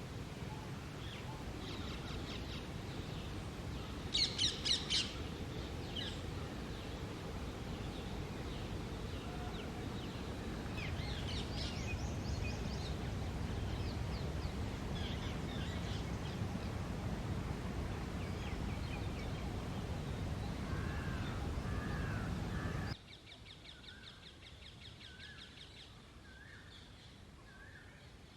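Rose-ringed parakeets and other birds calling, with a burst of four harsh shrieks about four seconds in, over a steady low background rumble. Near the end the rumble drops away abruptly and a bird repeats a short call about once a second.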